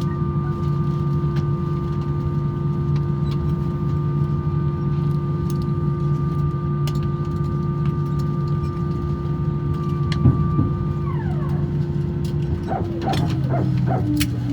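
Airbus A321-200 cabin at a standstill after landing: a steady low hum with a high whine that drops quickly in pitch about eleven seconds in. Near the end a run of short, rough pulses begins, typical of the A320-family hydraulic power transfer unit's 'barking dog' around engine shutdown.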